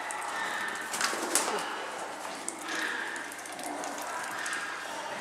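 Birds calling, with a cooing call among them.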